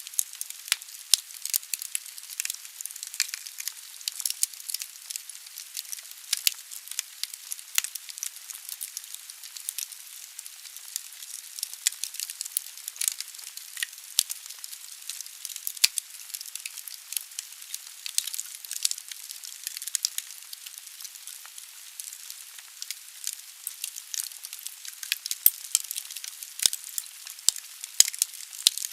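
Wood fire burning in a fireplace: a steady high hiss of the flames with constant sharp crackles and pops from the logs.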